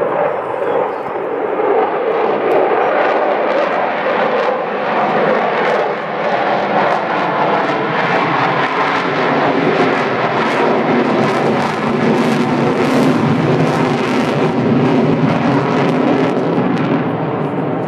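Loud jet roar of the Avro Vulcan B2 XH558's four Rolls-Royce Olympus turbojets as the bomber flies its display. The roar builds and stays strong, with a rough crackle through the middle stretch.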